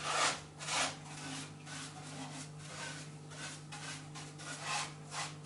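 Irregular scraping and rubbing strokes, hard material worked against hard material, like fireclay (chamotte) panels being shifted and fitted inside a fireplace firebox, over a faint steady low hum.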